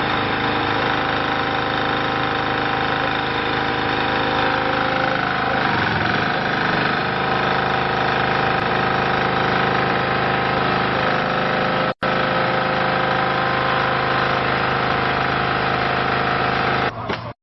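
Diesel engine of a hydraulic compressed earth block machine running steadily, its pitch wavering for a moment about a third of the way in. The sound breaks off for an instant about two-thirds through and stops just before the end.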